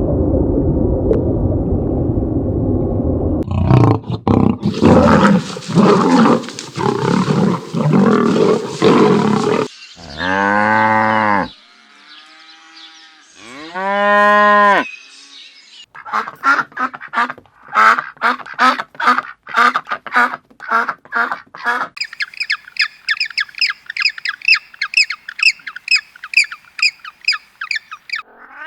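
A run of different animal calls, one after another. First comes rough, noisy calling, then two long pitched calls that rise and fall, then fast strings of short repeated calls, a few per second, through the second half.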